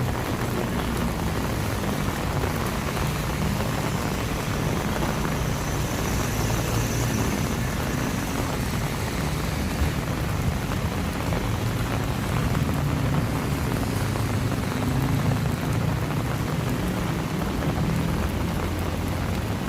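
Steady rain falling, a constant hiss, with a low rumble underneath throughout.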